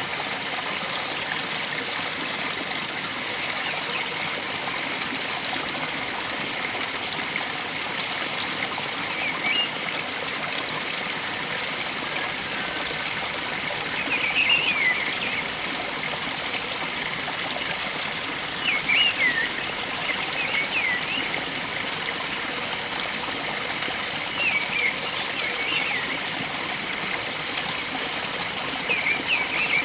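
Steady rush of flowing stream water, with a bird calling in short chirps every few seconds.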